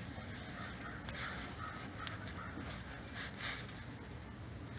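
A bird cawing several times in a row over a low steady rumble.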